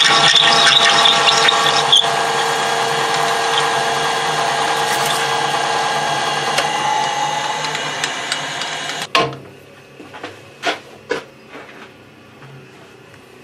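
Workshop machine motor running steadily with a whine of several fixed tones. It cuts off suddenly about nine seconds in, followed by a few light knocks.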